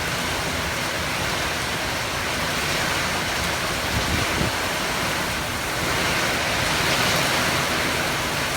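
Steady rushing of heavy rain and running water, a dense even hiss that grows slightly louder about six seconds in.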